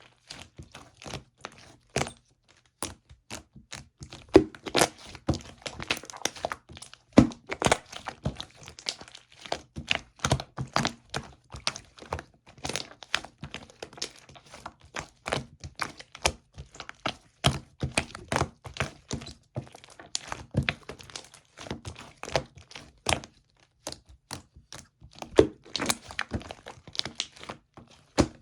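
Chewy slime being squeezed and pressed by hand, giving an irregular run of small clicks and pops, several a second.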